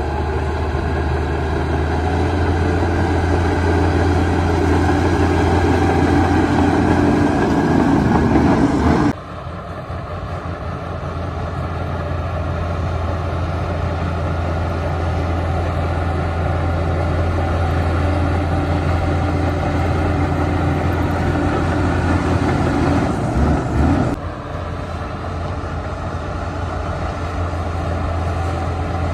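Heavy diesel engine of a Shantui DH17 bulldozer running steadily under load. The sound drops suddenly about 9 seconds in and again about 24 seconds in, then carries on at a lower level.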